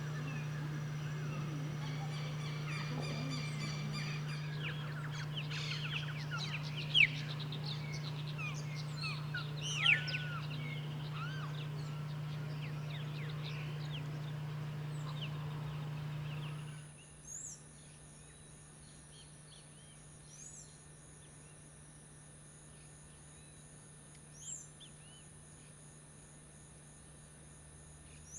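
Birds calling in the wild, many short chirps and whistles, with two louder calls about 7 and 10 seconds in and a steady low hum underneath. About 17 seconds in, the sound cuts to a quieter scene with a steady high-pitched insect drone and a few scattered chirps.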